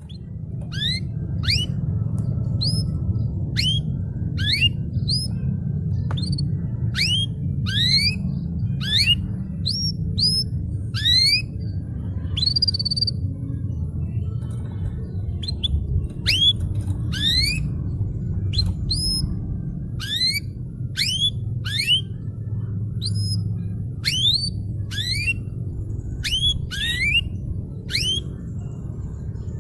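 Domestic canary singing: a quick series of sharply rising whistled notes, one or two a second, with a brief pause about halfway through. A steady low hum runs underneath.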